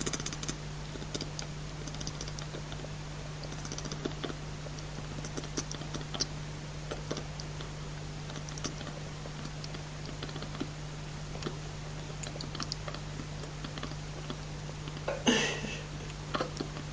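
Domestic cat making faint scattered clicking sounds over a steady low hum, then a louder raspy call lasting under a second about fifteen seconds in, the noise likened to a velociraptor.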